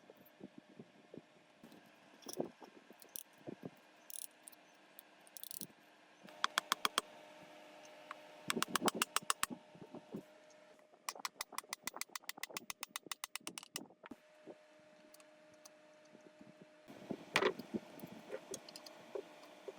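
Metal hand-tool work on engine parts: three bursts of rapid, evenly spaced clicking, about ten clicks a second, with scattered metallic knocks and clatter, the loudest near the end. A faint steady hum runs underneath.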